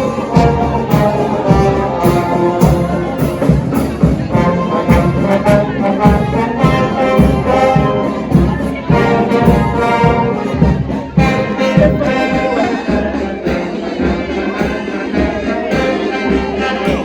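Brass band of trumpets and trombones playing a march-like tune over a steady drum beat; the low drum strokes thin out in the second half.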